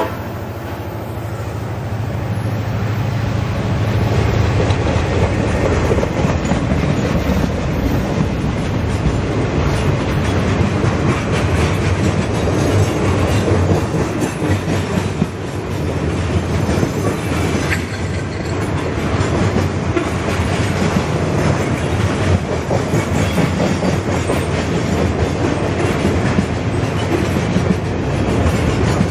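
A Norfolk Southern freight train's cars, flatcars stacked with long rails, rolling past close by. Steel wheels rumble steadily on the track, with many rapid clicks as the wheels pass over the rail.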